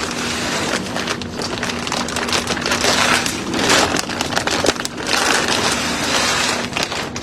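Continuous rustling and crackling with many small clicks, like plastic or leaves being crumpled and handled, dying down near the end.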